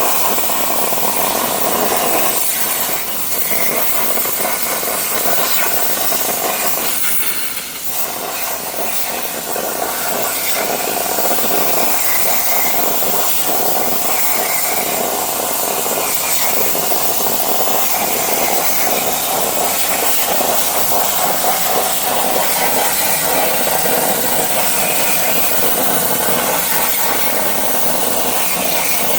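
Everlast 82i plasma cutter's torch cutting steel on a CNC table: a loud, steady hiss of arc and air that dips briefly twice early on.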